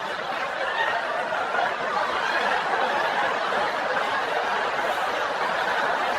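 A group of people laughing together, a steady, unbroken crowd laugh.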